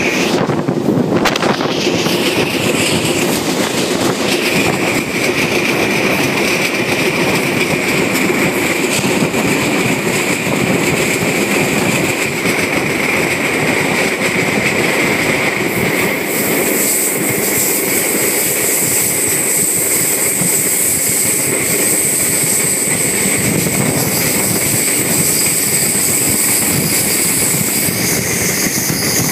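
Passenger train running, heard from aboard one of its cars: a steady rush and rumble of the wheels on the rails, with a high steady whine over it that gives way to a still higher one about halfway through.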